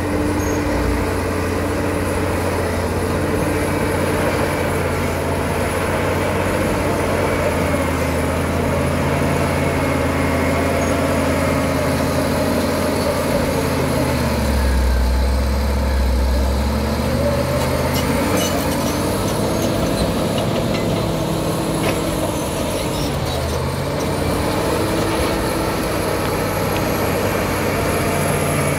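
Caterpillar D7 bulldozer's diesel engine running hard as the dozer works. Its pitch dips and recovers about halfway through, and again briefly a few seconds later.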